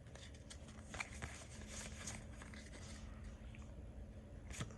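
Quiet handling of trading cards: a few soft clicks and light rustles as cards are flipped through, over a faint steady hum.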